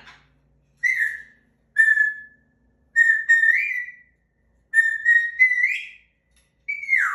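African grey parrot whistling a run of short notes, several sliding upward in pitch and the last one dropping near the end.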